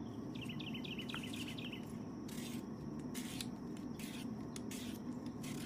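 A small bird chirping a quick run of short, high notes about half a second in and again near the end, over a steady low outdoor background hum.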